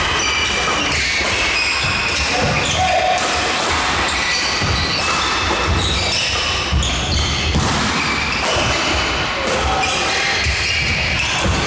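Badminton doubles play in a sports hall: repeated sharp racket strikes on the shuttlecock and short squeaks of court shoes on the floor, over a steady low hall rumble.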